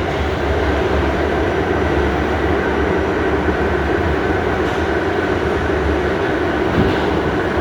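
Inside an R68A subway car running at speed through the tunnel: a steady, loud rumble of wheels and rails with a faint high steady tone, and a couple of light clicks from the track about five and seven seconds in.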